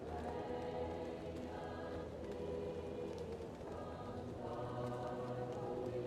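A choir singing slow, held chords, muffled as if heard from another room, the chords changing about two seconds in and again near four and a half seconds. Faint crackling of a wood fire sits beneath the singing.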